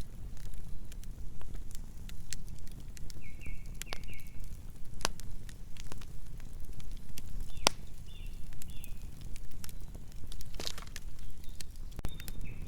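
Burning logs crackling: irregular sharp pops and snaps over a steady low rumble of the flames. There are a few short high-pitched chirps now and then.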